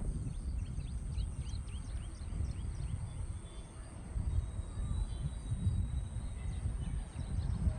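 Small birds chirping in many short, quick calls, with one thin whistle held for a few seconds in the middle. Under the birdsong runs a steady low rumble, and a constant high-pitched hum sits above it.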